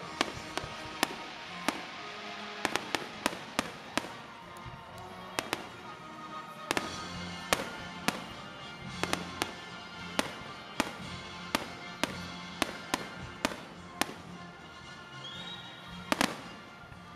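Aerial firework shells bursting in an irregular run of sharp bangs, about two a second, over steady background music.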